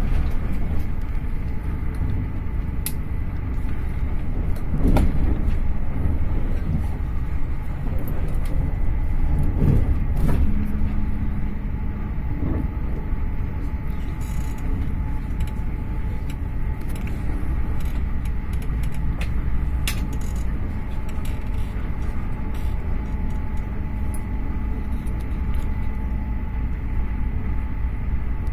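Steady rumble of a passenger train running at speed, heard from inside the carriage: wheels on the rails, with a few scattered sharp clicks and knocks.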